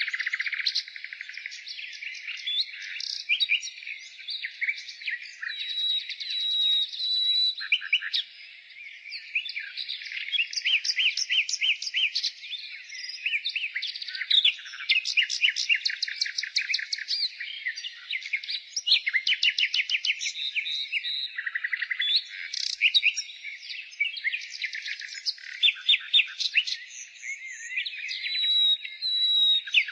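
Nightingale singing continuously: phrase after phrase of fast repeated notes, rattling trills and short clear whistles, with a brief lull about eight seconds in.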